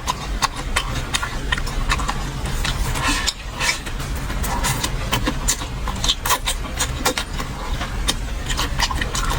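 Close-up eating sounds: chewing, with irregular wet clicks and smacks of the mouth, over a steady low hum.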